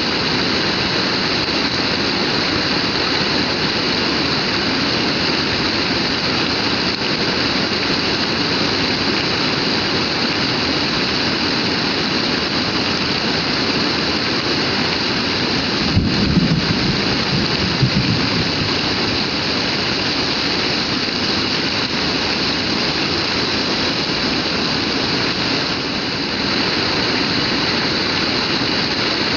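Heavy rain pouring steadily, a dense even hiss. Just past halfway a brief low rumble starts suddenly and dies away after about two seconds.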